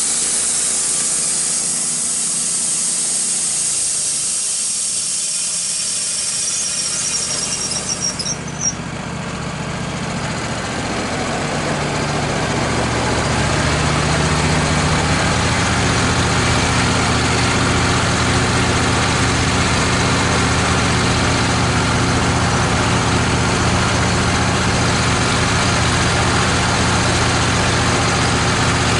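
Wood-Mizer LT15 sawmill's band blade cutting through red oak with a high hiss that stops suddenly about eight seconds in as the cut ends. The mill's engine then runs on, growing louder over a few seconds and settling into a steady note.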